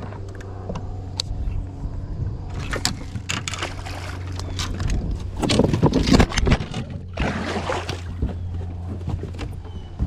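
A steady low motor hum, with a stretch of rough noise and sharp knocks over it in the middle, loudest about six seconds in.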